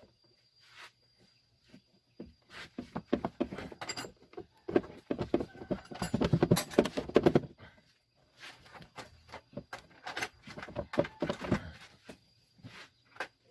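Rapid, irregular clattering clicks and knocks in two runs, loudest in the middle, over a faint steady high tone.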